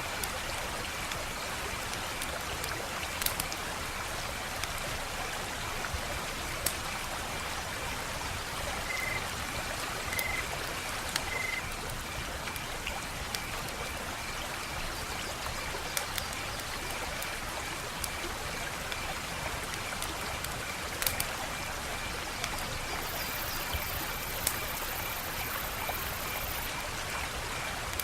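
Wood fire crackling: a steady hiss of small crackles with a handful of sharp, louder pops scattered through.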